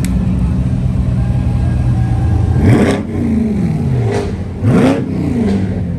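A car engine idling steadily, then revved twice, a sharp rev about halfway through and another about a second and a half later, the pitch climbing quickly and falling back to idle each time.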